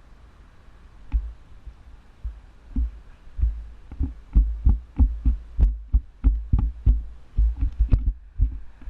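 A run of sharp knocks and thumps over a low rumble during a scooter ride, sparse at first and then coming about two or three a second from about three seconds in.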